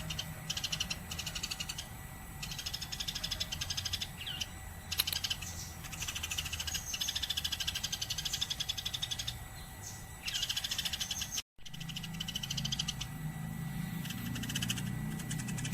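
Eurasian tree sparrow chirping in rapid, chattering bursts of a second or two with short pauses between, over a low steady hum; the sound cuts out completely for a split second about eleven and a half seconds in.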